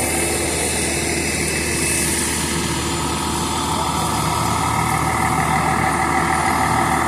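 Fire truck's diesel engine running steadily at idle, with a high hiss in the first couple of seconds. Higher steady tones join about halfway through.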